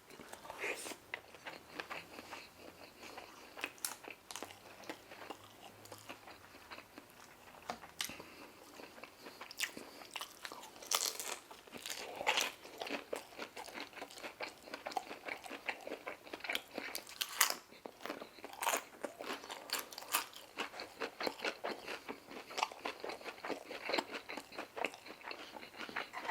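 Close-miked eating: a person biting and chewing Chinese takeout food, a stream of irregular wet clicks and crunches from the mouth that grows denser and louder about nine seconds in.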